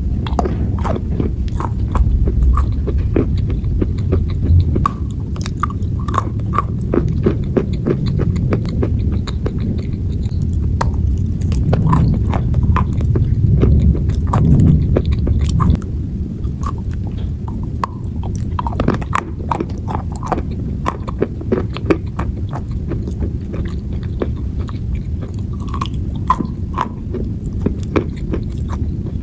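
A person biting and chewing pieces of dry clay close to the microphone: a continuous run of sharp, irregular crunches.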